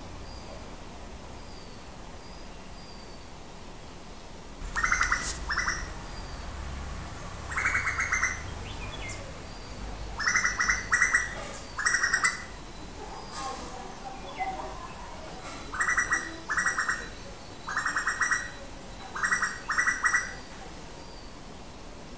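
A bird calling over and over in harsh, rapidly pulsed notes, mostly in pairs, one call every two or three seconds from about five seconds in. A thin, steady high-pitched tone runs beneath the calls.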